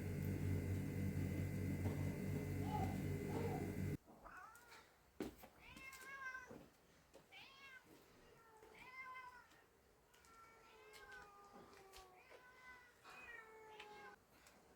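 Domestic cats meowing over and over, a series of rising-and-falling meows, some overlapping at different pitches. Before them, for about four seconds, a louder steady rushing noise cuts off suddenly.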